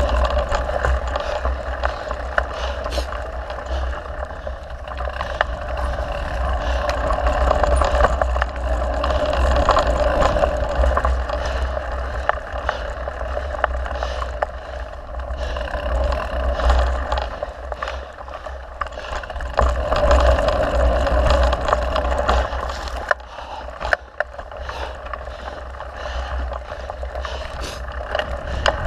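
Mountain bike ridden along a dirt trail: wind rushing on the microphone over the tyre noise, with frequent small rattles and clicks from the bike over bumps.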